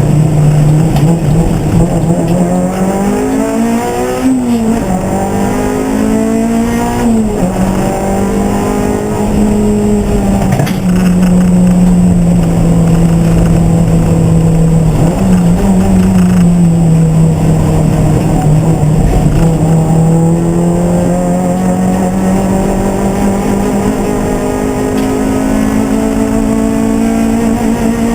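Racing car engine running hard on a circuit: its pitch climbs and drops sharply several times in the first eight seconds with gear changes and braking, holds steadier through the middle with a short dip, then rises slowly through a long pull.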